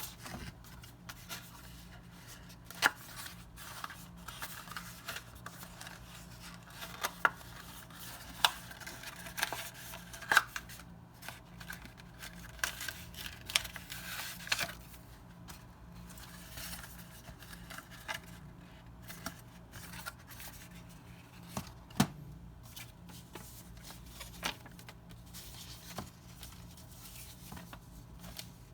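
Small plastic parts and packaging being handled while unboxing a Xiaomi Mi Band 4 fitness band: scattered sharp clicks and taps, with bouts of rustling and scraping.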